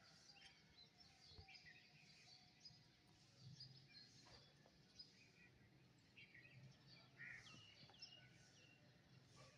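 Songbirds chirping and twittering faintly, many short calls scattered throughout, over a faint steady low hum.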